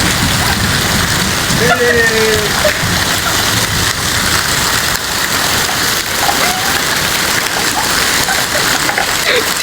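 Steady heavy rain falling on surfaces, a dense even hiss. A few short pitched calls rise above it, about two seconds in and again near the end.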